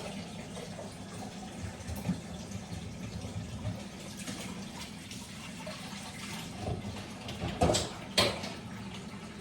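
Kitchen sink tap running while hands are washed under it, a steady splashing stream. Near the end two short, sharp noises stand out above the water.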